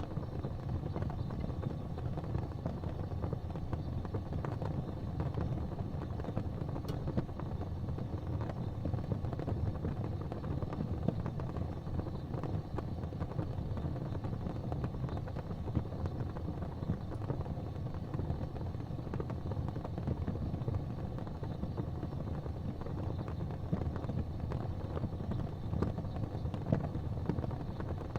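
Gas fireplace flames burning with a steady low rumble and a few faint scattered ticks.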